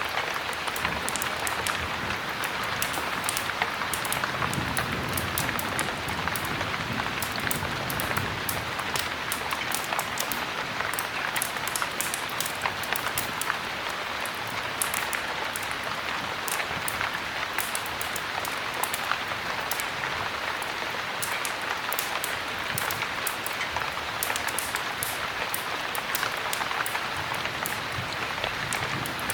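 Heavy rain falling steadily, with frequent sharp ticks and crackles running through the hiss.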